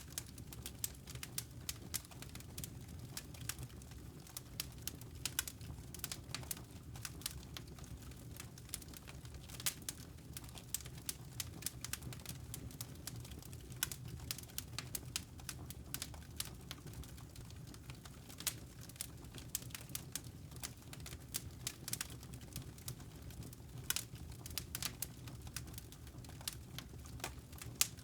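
Wood fire crackling in a fireplace, with frequent irregular snaps and pops over a low steady rumble.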